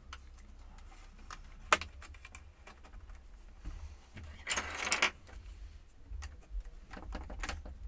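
Small clicks and taps of a screwdriver and tiny screws against laptop plastic and metal during disassembly, with one sharp click a little under two seconds in and a brief scraping rustle around the middle. A steady low hum runs beneath.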